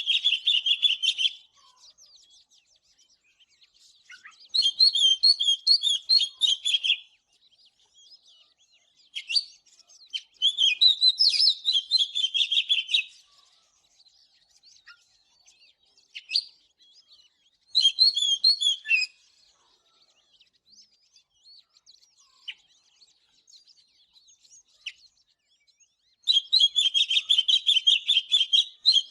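Oriental magpie-robin singing: bursts of rapid notes about two to three seconds long, five in all, with pauses between them holding scattered single chirps.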